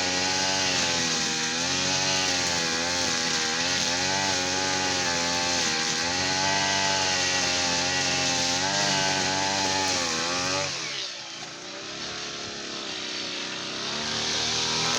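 Petrol brush cutter engine running at high speed, its pitch wavering slightly. About ten seconds in it drops away suddenly and goes quieter, then builds up again near the end.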